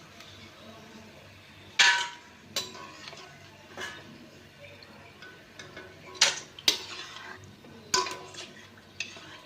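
Metal utensils clinking against a kadai as fried snack pieces are lifted out of the oil: about seven sharp knocks, irregularly spaced, a few ringing briefly.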